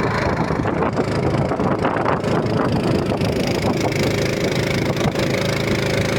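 An engine running steadily, its hum settling into a steady, even pitch about two-thirds of the way through.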